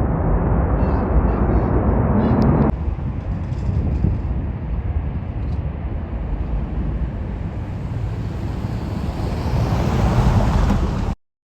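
Jet airliner engine noise during takeoff: a loud, steady roar with wind on the microphone. It drops abruptly a few seconds in, swells again near the end, then cuts off suddenly.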